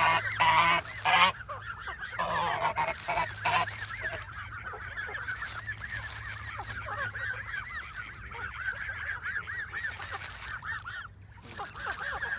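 A flock of Canada geese honking. Loud close honks come in the first few seconds, then settle into a steady chorus of many overlapping calls.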